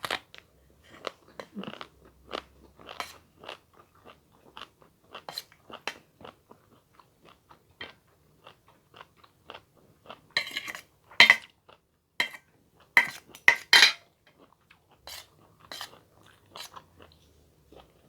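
Close-miked chewing and crunching of food in the mouth, a run of short crisp bites, loudest for a few seconds just past the middle.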